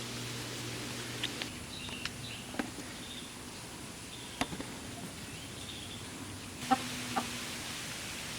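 Chickens clucking faintly with short calls, over a steady low hum, with a few sharp knocks or clicks, the loudest about two-thirds of the way in.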